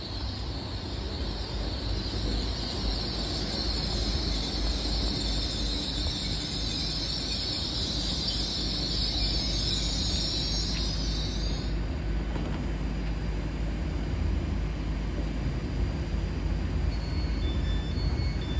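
Train running past on the rails: a steady rumble of wheels and running gear with a high hiss over it that stops about two-thirds of the way in, leaving the low rumble.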